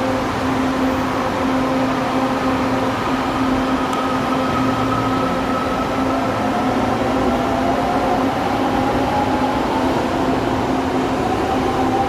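LRT Line 2 electric train humming steadily, with a whine that rises slowly in pitch through the second half as the motors pick up speed.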